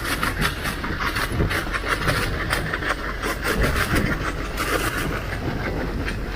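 Small fishing boat in rough sea and strong wind: a rapid, uneven clatter of water slapping against the hull over a steady low rumble.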